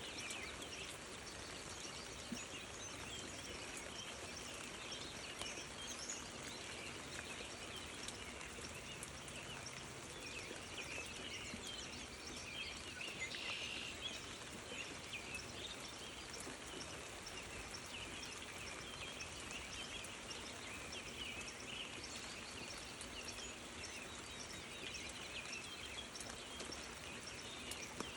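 Outdoor ambience: a dense, continuous chorus of many short, high chirps and calls over a steady background hiss.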